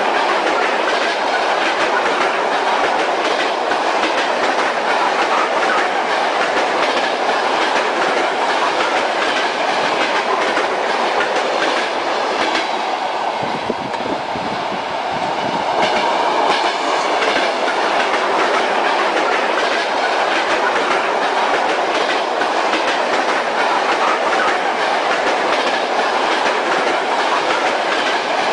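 Railway carriage rolling along at speed, heard from inside the train: a steady running rumble with the clickety-clack of the wheels over the rail joints. About halfway through the sound briefly dulls and drops a little, then returns to the same steady run.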